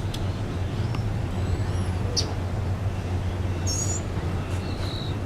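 A steady low hum, with a few short high bird chirps scattered over it.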